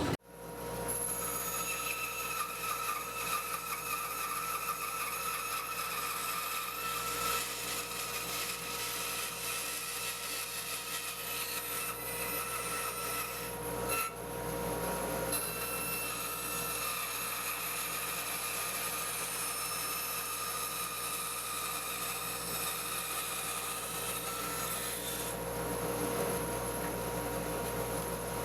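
Band saw running and cutting through framing lumber, removing the waste between notches to form half-lap joints: a steady motor and blade hum with a shifting sawing tone under load. It comes up about a second in and briefly drops out with a click about halfway.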